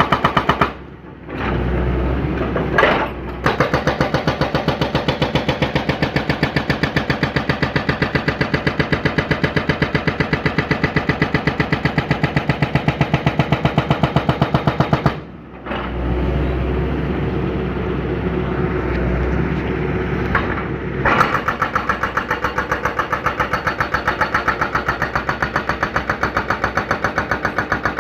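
Hydraulic breaker hammer on a John Deere 160C excavator pounding concrete in a fast, steady rattle of blows. It stops twice, briefly about a second in and for several seconds around the middle, leaving the excavator's diesel engine running, then starts hammering again.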